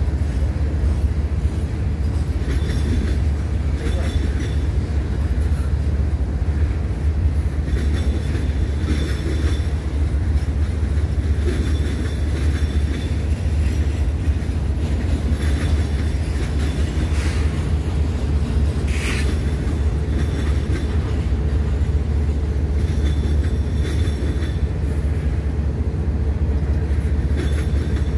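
A train rolling past with a steady heavy rumble and scattered clicks from the wheels and rail, and a brief wheel squeal about two-thirds of the way through.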